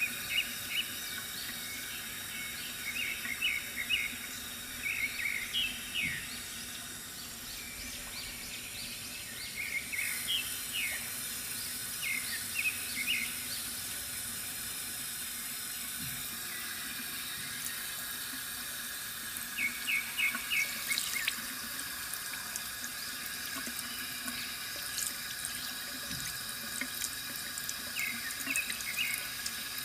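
Bamboo water fountain running, a steady trickle and splash of water. Small birds chirp over it in short runs of quick notes, recurring every few seconds.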